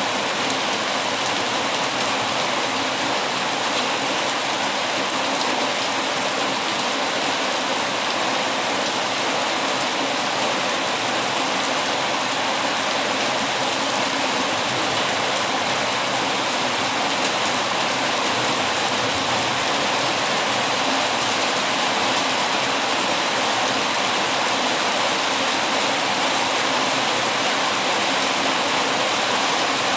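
Steady heavy rain: an even, unbroken hiss with no pauses or changes.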